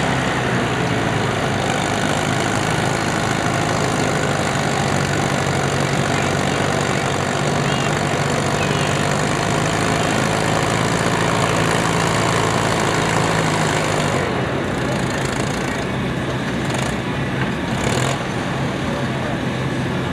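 A Farmall Super M's four-cylinder engine running steadily at pulling speed under load. About fourteen seconds in, its sound drops and changes.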